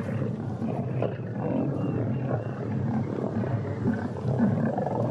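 Several lions growling continuously as they compete at a fresh zebra kill, jostling one another over the carcass.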